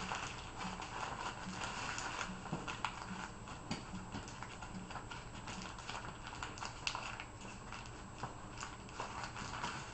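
Newspaper being crumpled and twisted by hand into a ball: a continuous run of irregular crinkling crackles.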